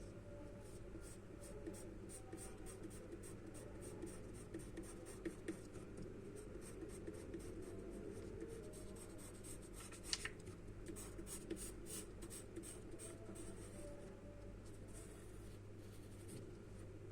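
Charcoal scratching on drawing paper in many quick, short strokes, thinning out near the end, over a steady low hum.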